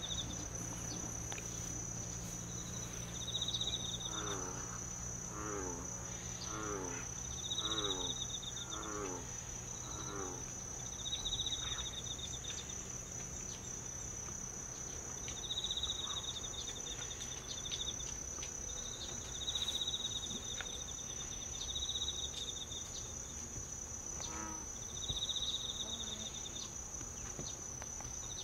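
Insects chirping: a steady high-pitched pulsing buzz, with short trilled chirps repeating every few seconds. Between about four and ten seconds in comes a run of six short calls, each falling in pitch, about one a second.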